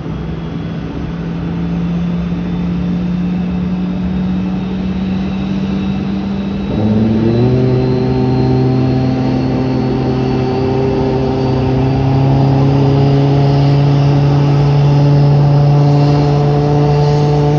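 Engine noise during a Boeing 737 pushback: a steady engine hum that changes pitch abruptly about seven seconds in, then climbs slowly, with a faint high whine rising over it.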